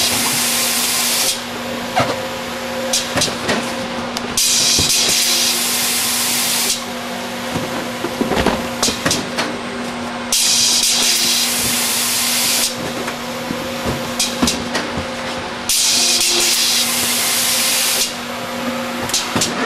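Print-and-apply label applicator with a Zebra print engine cycling: about every six seconds a two-second rush of air hiss, with clicks and knocks of the mechanism between, over a steady machine hum.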